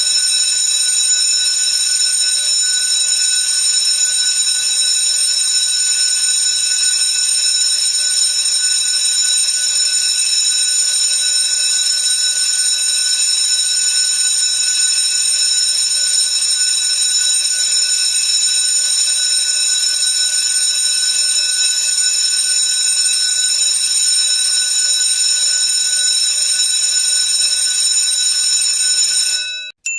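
A steady, high-pitched electronic alarm tone held without a break, cutting off suddenly near the end.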